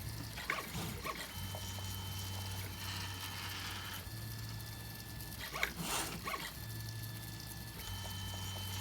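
3D printer's stepper motors whining in steady tones that shift pitch every second or so as the print head moves, with a low hum beneath and a couple of brief soft rustles or clicks.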